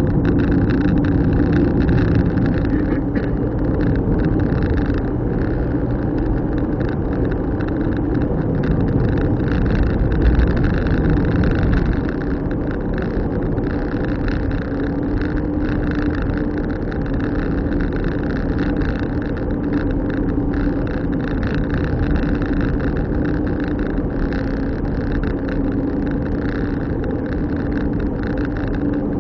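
Car driving at a steady pace: a continuous engine hum over rumbling tyre and road noise.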